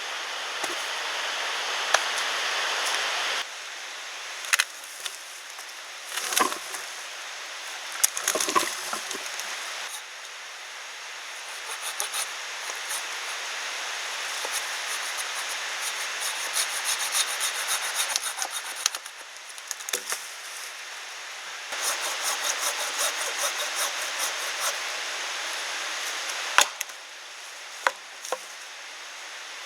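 Hand saw cutting through wood in rapid back-and-forth strokes, the sound changing abruptly several times between short stretches, with a few sharp knocks of wood.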